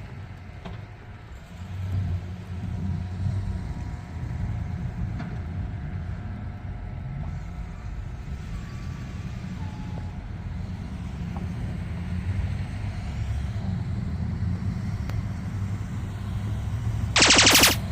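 Truck engine running with a steady low rumble. About a second before the end comes a short, loud, rapid buzzing burst.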